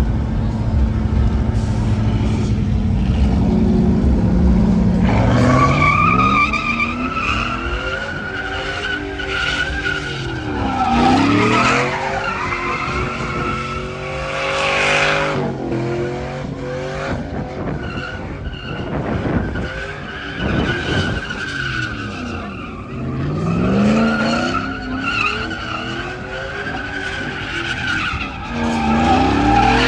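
Pickup truck doing a burnout: the engine holds a steady high rev, then from about five seconds in the tires squeal steadily while the engine revs rise and fall again and again. With an unwelded (open) differential, only one tire is spinning.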